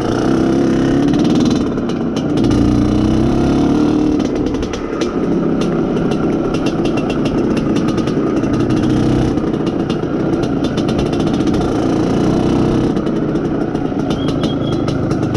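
Single-cylinder two-stroke engine of an IZh Planeta Sport motorcycle running under load in second gear on a muddy track, its note rising and falling with the throttle. The engine is fresh and being run in, so it is not revved hard.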